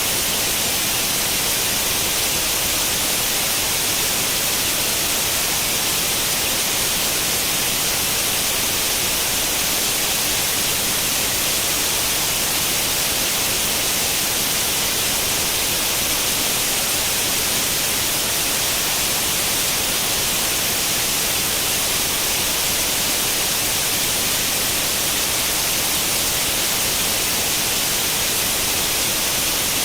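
Steady white-noise hiss, like the static of an old tube television tuned to no channel. The hiss is even and unbroken, bright and strongest in the high frequencies.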